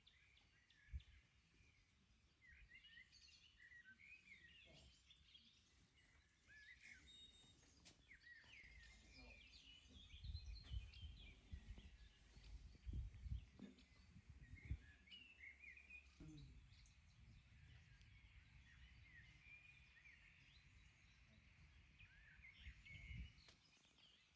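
Faint songbirds chirping and trilling over quiet outdoor ambience, with a few low thumps in the middle.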